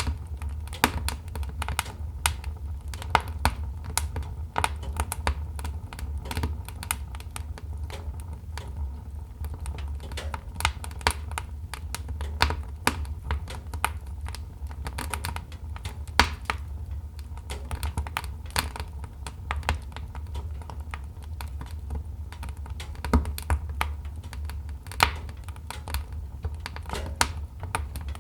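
Wood fire crackling in a fireplace: irregular sharp crackles and pops, some louder than others, over a steady low rumble.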